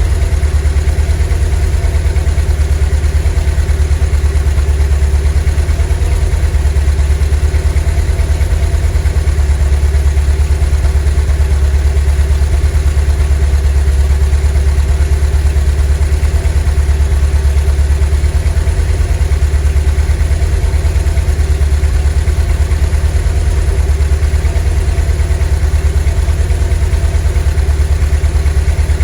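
VW T3 bus's 2.1-litre WBX water-cooled flat-four engine idling steadily, a deep, even drone with no change in engine speed.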